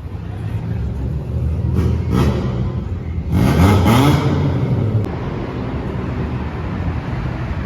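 Car engine revving at a car meet: a steady running drone with a quick rise in revs about two seconds in and a longer double rev around the middle, then settling back.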